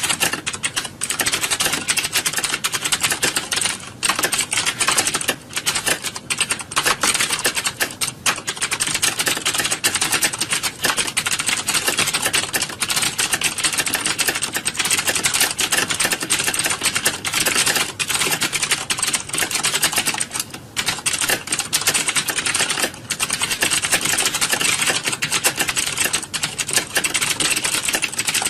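Many computer keyboards typed on at once in a large room, a dense, unbroken clatter of key clicks with only brief lulls.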